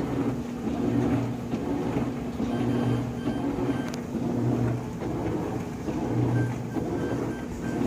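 GE top-load washing machine beeping over and over while it washes, short high beeps repeating through the whole cycle, a fault in the machine's controls. Under the beeps the washer's motor hums, swelling and fading at regular intervals of about a second and a half to two seconds as it agitates.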